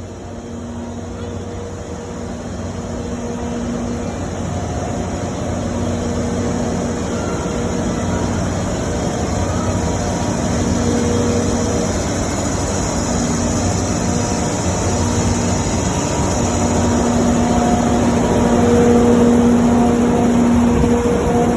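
Cassiopeia Kikō sleeper train running at the station, a steady rumble with a humming tone that grows gradually louder.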